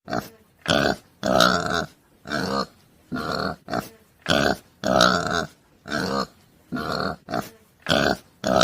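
Domestic pig grunting over and over, about a dozen short grunts at one or two a second.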